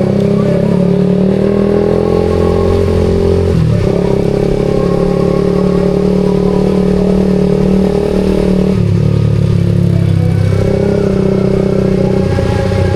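Suzuki GSX-R150's single-cylinder engine running through a SARP aftermarket exhaust while cruising at fairly steady revs. The note changes briefly about four seconds in and shifts again near nine seconds.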